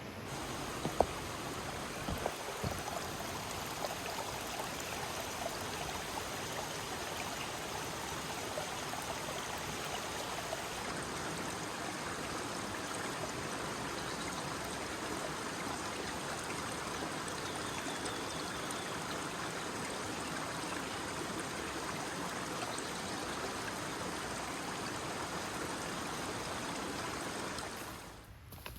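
Stream water running steadily, with a few sharp knocks in the first few seconds; the rushing stops abruptly shortly before the end.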